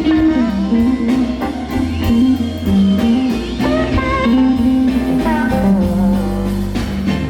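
Live blues band playing a slow blues, with a lead electric guitar bending notes over bass and drums.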